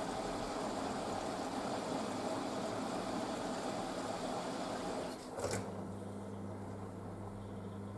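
Panasonic washing machine running its wool cycle: a steady rushing noise stops about five seconds in with a sharp click, followed by a quieter, steady low hum.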